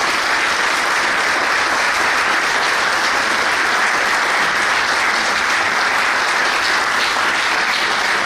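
An audience applauding: steady, dense clapping that holds throughout and eases slightly near the end.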